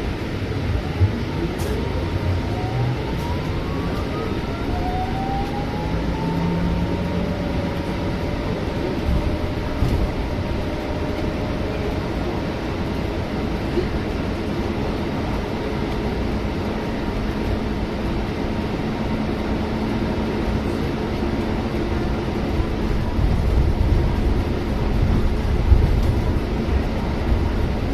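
Scania city bus heard from inside the cabin while driving: the engine and drivetrain whine rise in pitch several times in the first few seconds as it accelerates, then settle into a steady running drone with road rumble.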